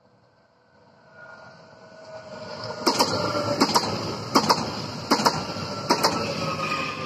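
PESA ELF 2 electric multiple unit passing at speed: its running noise builds as it approaches, then about five pairs of sharp clacks as bogie wheelsets cross a rail joint, over a steady electric whine from its traction drive.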